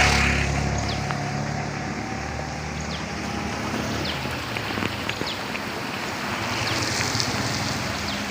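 Steady hiss of drizzling rain and wind outdoors, with a motor vehicle's engine loudest in the first second, then easing off into a lower background hum.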